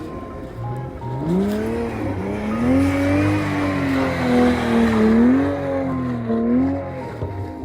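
Toyota Supra (A90) engine revving. Its pitch climbs about a second in, then stays high and wavers up and down as the throttle is worked, as when sliding the car on snow.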